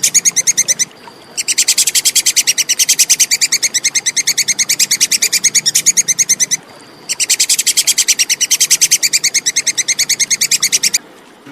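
Tupai kekes squirrel chattering: long runs of rapid, evenly repeated sharp notes, about eight to ten a second. There are two short breaks, about a second in and about seven seconds in, and the calling stops about half a second before the end.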